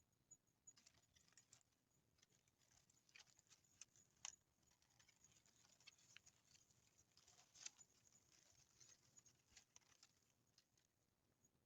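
Near silence with faint, irregular ticks and clicks scattered throughout, the loudest about four seconds in and again past seven seconds.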